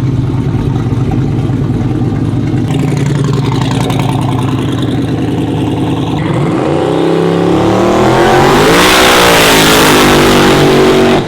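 Twin-turbo 4x4 truck engine running loud and steady, then accelerating hard from about six seconds in, its note rising and then holding high, with a loud rush of turbo and air noise. It cuts off suddenly at the end.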